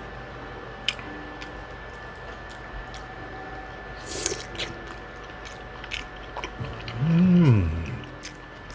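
Close-miked chewing of sausage and mac and cheese, with scattered wet mouth clicks. About seven seconds in comes a hummed "mm" of enjoyment that rises and then falls in pitch.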